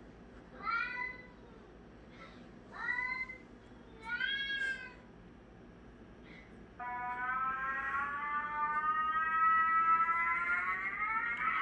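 Cat meowing three times, then a long drawn-out yowl starting about seven seconds in, slowly rising in pitch.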